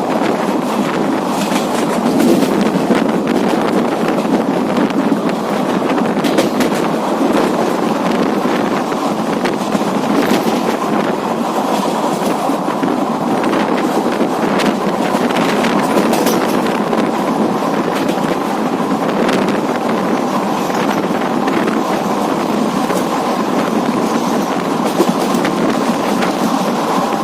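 Passenger train running along the track, heard from on board: a steady rumble of the coaches with scattered clicks of the wheels over the rails.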